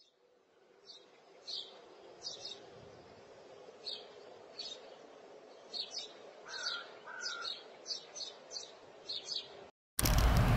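Small birds chirping: short, high, downward-sliding chirps at about one or two a second, over a faint steady hum. Just before the end it cuts suddenly to the much louder, steady noise of a parking garage.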